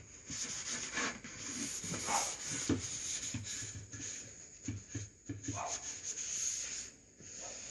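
Cloth rag rubbing over a wood-veneered door capping, wiping stain across the surface in irregular strokes.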